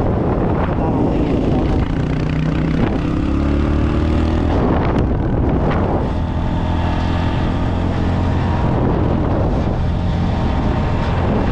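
Dirt bike engine running under way while riding, with wind buffeting the microphone. The engine pitch climbs a few seconds in, breaks briefly around the middle, then holds fairly steady.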